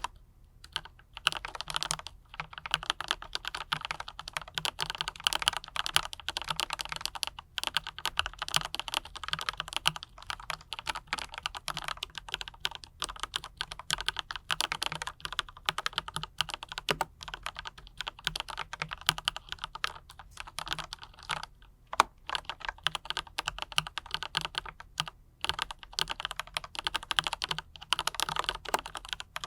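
Typing on a mechanical keyboard fitted with Autumn Rain switches and PBT double-shot keycaps: rapid keystrokes with a few brief pauses.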